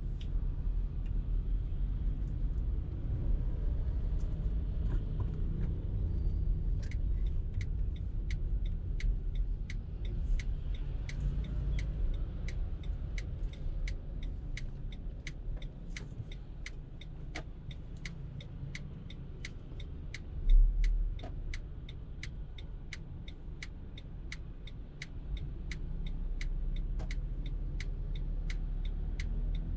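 Car driving with a steady low rumble of engine and road noise; from about a quarter of the way in, a turn-signal indicator ticks evenly about twice a second. One brief low thump about two-thirds of the way through.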